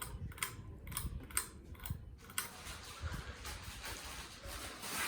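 Encon Odyssey ceiling fan running on high speed and wobbling, with a quick series of light clicks in the first couple of seconds, then a steady rush of air with low rumbles.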